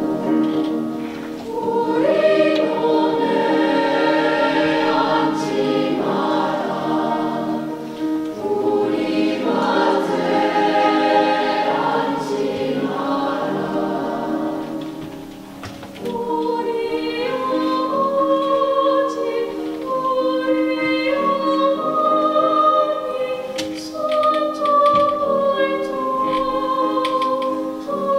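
Youth choir singing a Korean folk-song arrangement in several parts, with layered held chords. About halfway through the singing eases off briefly, then comes back with one clear melody line over sustained harmony.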